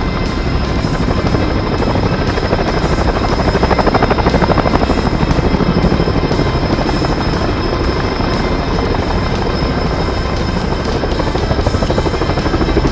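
Helicopter rotor chopping steadily in fast, even beats, with a thin high whine, over background music.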